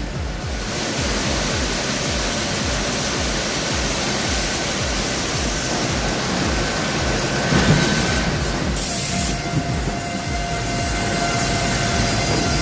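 Sawmill machinery running steadily as it cuts a very long Douglas fir log into slabs, a continuous mechanical noise with faint held tones. Background music with a steady low beat runs underneath.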